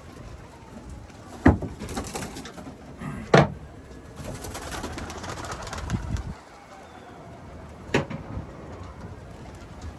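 Domestic pigeons cooing, with three sharp claps or knocks spread through.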